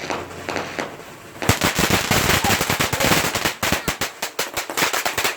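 A lit firework crackling: a dense run of rapid sharp cracks and pops starts about a second and a half in and keeps going.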